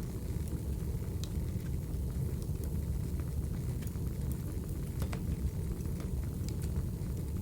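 Recorded wood fire burning: a steady low rumble of flames with scattered sharp crackles and pops a few times a second.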